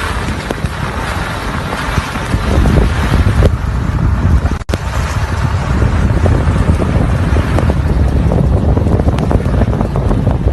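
Strong blizzard wind buffeting the microphone: a loud, gusty rumble with a short break about halfway through.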